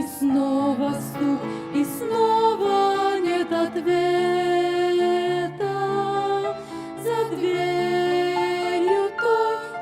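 Slow Christian song: a solo voice sings a wavering melody over long, steady low accompaniment notes.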